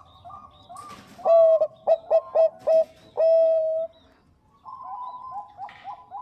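Zebra doves of the Bangkok type (perkutut bangkok) cooing. A soft, quick run of coos gives way about a second in to a much louder phrase of several short coos ending in one long held coo. After a short pause the quick, rhythmic cooing starts again.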